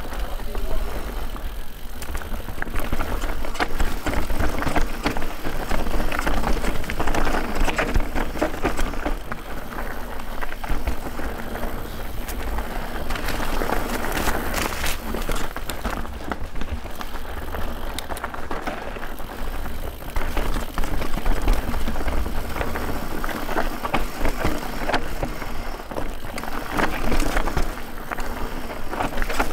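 Guerrilla Gravity Smash mountain bike riding down a dirt trail: tyres rolling over dirt and rocks with constant rattling and clicking from the bike, over a steady low rumble.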